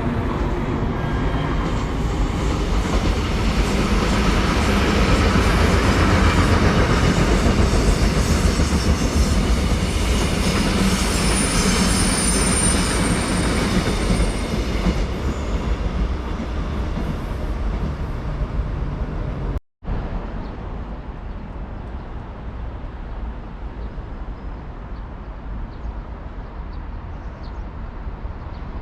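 Train running past on the track, its wheel and rail noise swelling to a peak and then easing, with a brief high squeal partway through. After an abrupt cut about two-thirds of the way in, a quieter steady rail rumble continues.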